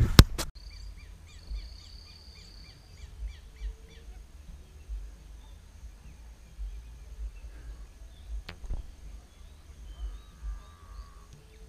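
Wild birds calling: a quick run of short repeated chirps, about three a second, in the first few seconds, with a long high whistle held over them, then scattered faint calls. A couple of sharp clicks come at the very start and one more about eight and a half seconds in, over a low rumble.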